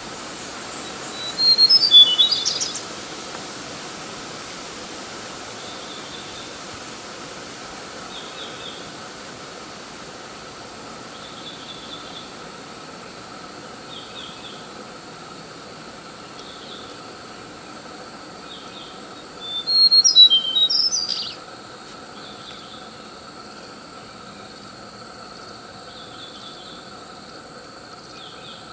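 Songbird singing in two loud, brief, high-pitched phrases, one near the start and one about two-thirds of the way through, with faint short chirps every couple of seconds between them over a steady background hiss.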